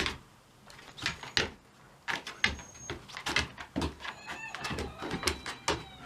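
Dogs playing and scuffling, making a run of short thumps and knocks, with a brief high whine about four seconds in.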